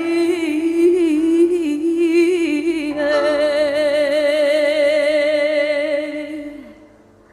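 Woman singing a long held line in Arabic with strong vibrato, moving up to a higher sustained note about three seconds in, which fades out near the end.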